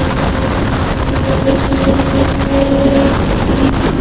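Kawasaki Z900's inline-four engine running at a steady pitch, with wind noise on the microphone.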